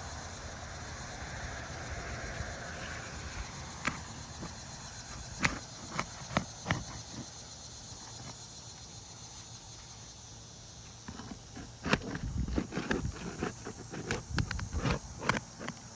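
Asphalt roof shingles and a roof snake clicking, knocking and scraping as the tool is worked under the shingles to get at the nails: a few sharp knocks, then a busier run of them after about eleven seconds, over a steady background hiss.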